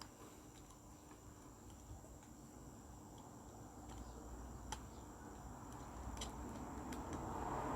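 Faint rustling and a few small clicks from hand work on ceiling-fan wiring, the rustling growing louder near the end, over a steady high-pitched electrical whine.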